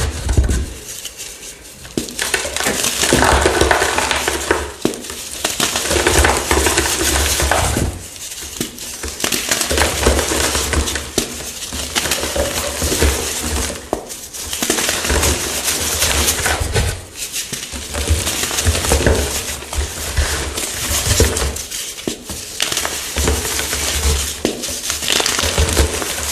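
Fresh chalk blocks being crushed: dense crunching and crumbling in bouts of several seconds, with brief pauses between.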